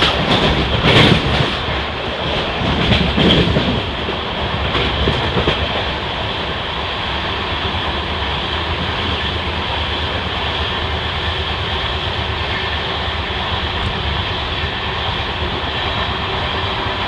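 Passenger train running along the track: a steady rumble of wheels on rail, with a few sharp wheel clicks over rail joints in the first five seconds.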